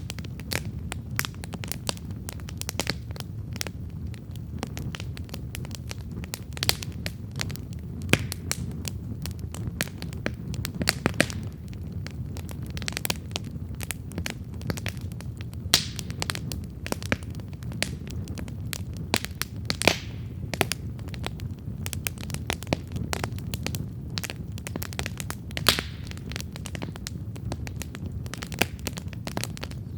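Wood campfire burning, crackling and popping continually over a steady low rumble of the flames, with a few sharper, louder pops scattered through.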